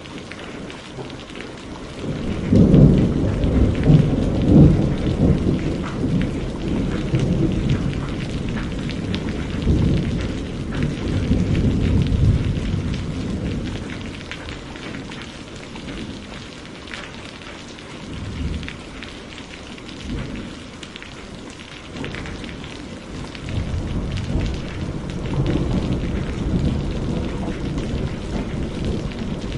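Thunderstorm: steady rain with long low rolls of thunder, one rumbling in about two seconds in and fading over some ten seconds, another building near the end.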